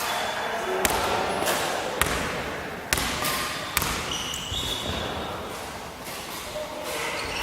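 Basketball bouncing on an indoor court floor, four sharp bounces about a second apart in the first half, with short high-pitched sneaker squeaks on the floor in the middle and near the end.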